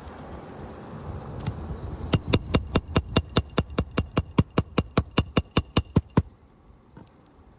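Hammer driving roofing nails into a shingle: a quick, even run of about twenty blows, about five a second, each with a short metallic ring. It starts about two seconds in and stops well before the end.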